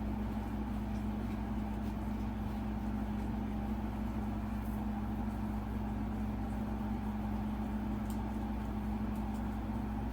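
A steady low mechanical hum with one strong held tone, like a motor or appliance running continuously.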